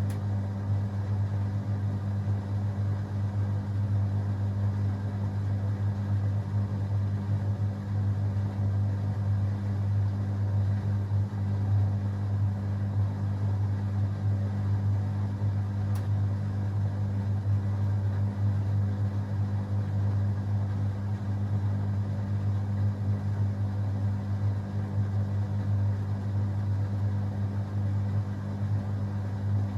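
Beko WA 1050 washing machine running with a steady low hum.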